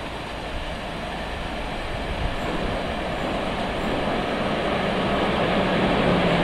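Newag Griffin E4DCUd electric locomotive hauling a passenger train as it approaches, the rumble of the train growing steadily louder, with a low steady hum coming in about halfway.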